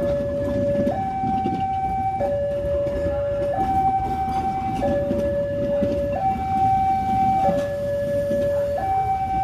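Two-tone hi-lo warning siren alternating between a low and a high note, each held about a second and a quarter, over a continuous low rumble.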